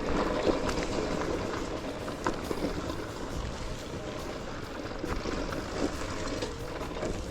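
Riding noise from a Gowow Ori electric dirt bike: a steady rush of wind and tyres over rough ground, with scattered small knocks from the chassis and terrain, the motor itself nearly silent.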